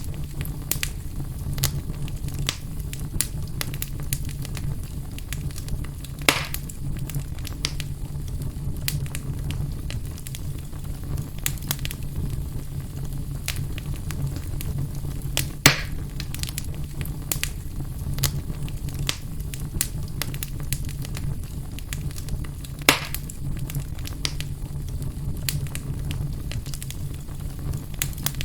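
Wood fire burning in a fireplace: steady crackling with many small snaps over a low, even rumble, and three louder pops spaced through it.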